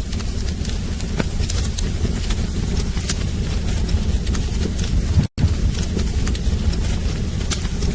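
Wood fire burning in a fireplace: a steady low rumble of flames with irregular sharp crackles and pops of the burning logs. The sound cuts out for an instant a little past five seconds in.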